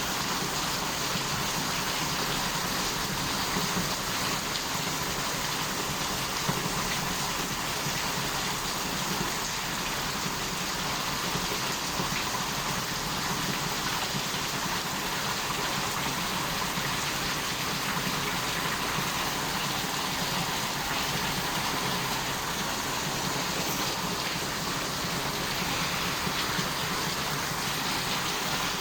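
Rain falling steadily in a thunderstorm: an even, unbroken hiss.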